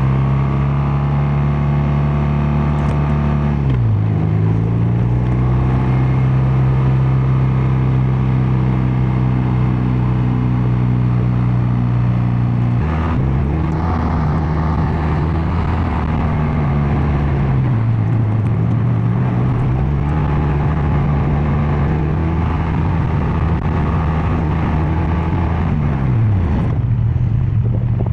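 BMW R12 NineT's air/oil-cooled boxer twin running under way, its exhaust note steady at a cruise. Engine speed dips and comes back up about four seconds in, again around thirteen and eighteen seconds in, and falls away near the end, as the rider shifts and rolls the throttle.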